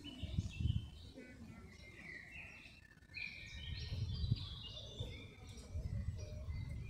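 Songbirds chirping and singing, a run of short, quick notes, some stepping up or down in pitch, busiest from about two seconds in. Under them is an uneven low rumble.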